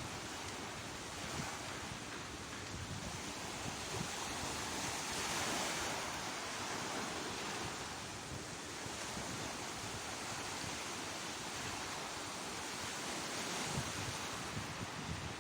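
Sea waves breaking and washing on the shore, the surf swelling louder about five seconds in and again a few seconds later, with wind gusting on the microphone.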